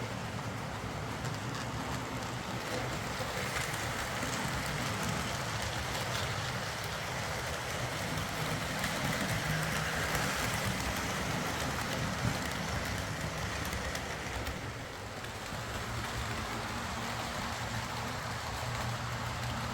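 Hornby OO-gauge Class A4 'Mallard' model locomotive running around a layout: a steady electric motor whirr with wheels rattling over the track, swelling as it draws nearest about halfway through and easing off briefly later. This is the overhauled former non-runner running again.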